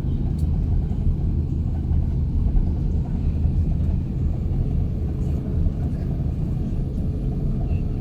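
Low, steady rumble inside the cabin of an Airbus A350-900 as it taxis after landing, its Rolls-Royce Trent XWB engines at idle.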